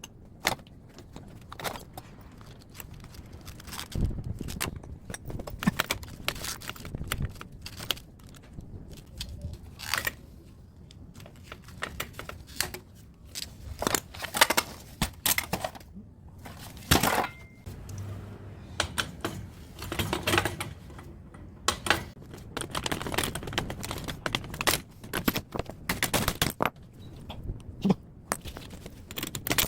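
Metal clanks, knocks and scraping from hand tools taking apart a scrapped air-conditioner outdoor unit. The knocks come irregularly, with a loud cluster about halfway through.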